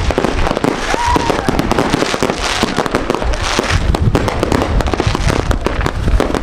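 Dense, continuous crackling and popping of many fireworks and firecrackers going off close by, with a short whistle about a second in.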